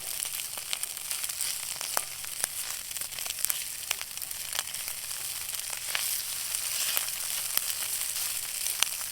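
Eggs and potatoes frying in oil in a cast iron skillet: a steady sizzle with scattered sharp pops.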